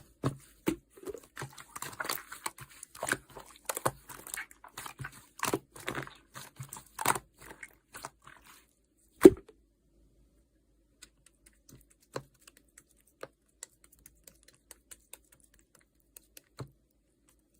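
Yellow clear slime being pressed and stretched: irregular sticky clicks and small air-bubble pops for about eight seconds, one sharp louder click about a second later, then only occasional faint clicks.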